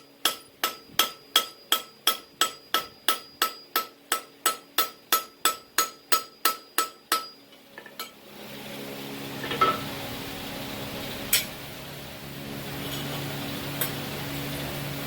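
Hammer striking steel on an anvil in forging, a steady run of ringing blows about three a second that stops about seven seconds in. A steady machine hum follows, broken by a few single metal clinks.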